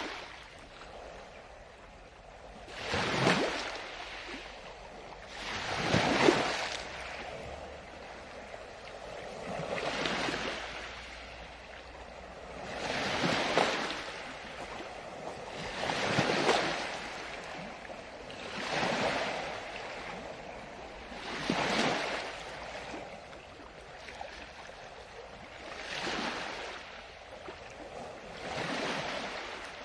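Ocean waves breaking one after another, each swelling and fading, about every three seconds.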